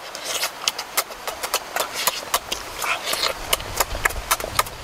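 Close-miked chewing of a soft boiled egg: a quick, uneven run of wet lip smacks and mouth clicks.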